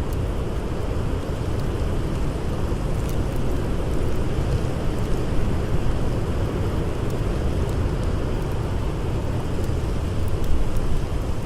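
Blizzard wind howling as a steady low roar with gentle swells. A few faint crackles from a campfire sound within it.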